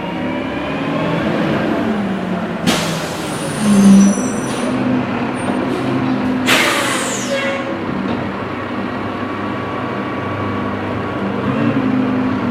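Recycling truck's diesel engine running, its pitch rising in the first couple of seconds, with two sharp air-brake hisses about three and six and a half seconds in, the second fading away. A short, loud low tone sounds about four seconds in.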